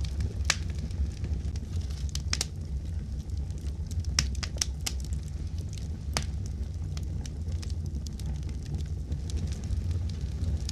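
Wood fire crackling, with sharp pops at irregular moments over a steady low rumble.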